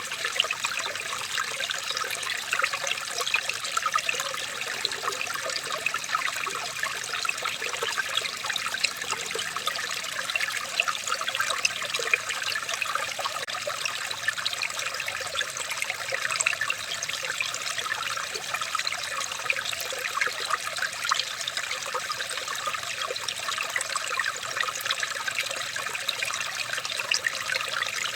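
Running water trickling steadily, with a dense patter of small splashes that keeps up evenly throughout.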